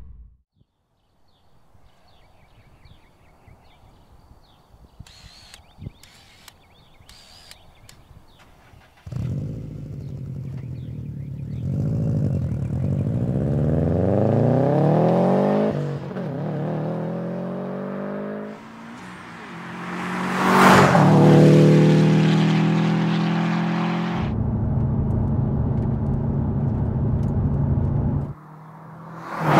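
Subaru WRX STI's turbocharged flat-four accelerating hard through the gears, the revs climbing and dropping back at each upshift, then the car passing close and cruising at steady revs. For the first several seconds there is only a quiet background with a few faint clicks.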